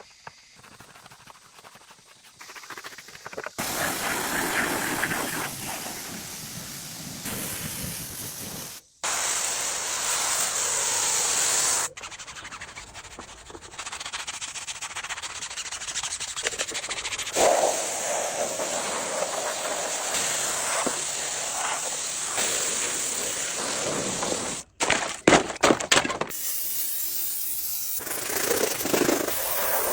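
Car-cleaning equipment hissing steadily in a string of short, abruptly cut clips, with a few sharp knocks a little past the middle.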